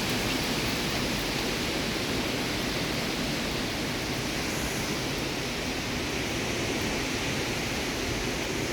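Severe windstorm: a steady rushing noise that holds even throughout, with no gusts or breaks standing out.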